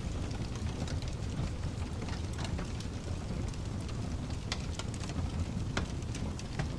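Fireplace crackling, with frequent irregular snaps and pops of burning wood over a steady low rumble of pink noise.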